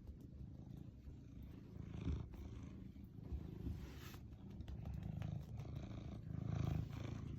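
American Shorthair cat purring close up: a steady low rumble that swells louder near the end.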